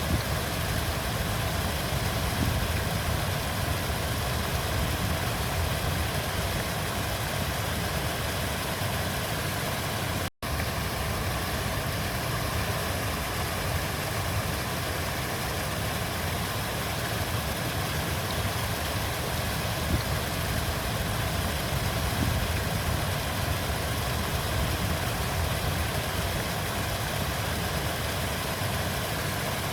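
River water flowing, a steady even rush with a low rumble. The sound drops out for a split second about ten seconds in, then resumes unchanged.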